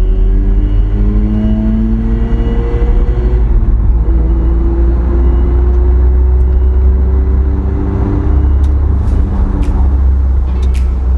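Mazda RX-7's rotary engine pulling under acceleration, its pitch rising, dropping at a gear change about three and a half seconds in, then climbing again. There is a heavy low rumble throughout.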